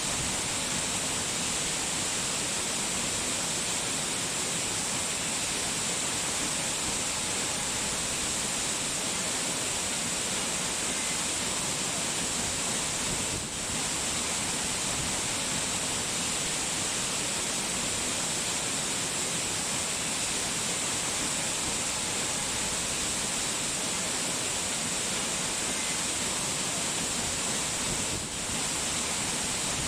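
Steady rushing water noise, an even hiss from rain or falling water, dipping briefly twice.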